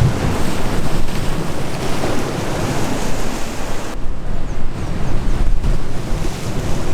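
Waves breaking and washing on the shore, with wind buffeting the microphone in a heavy, gusting rumble.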